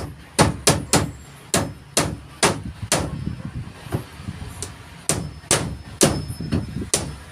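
Hand hammer driving nails in repeated sharp blows, about two to three strikes a second with a brief pause near the middle, each hit with a slight metallic ring.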